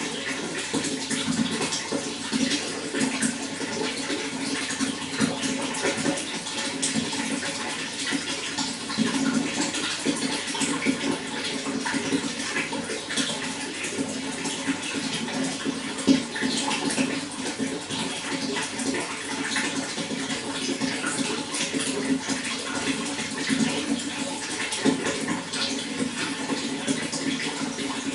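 Running water, flowing and splashing steadily with many small splashes.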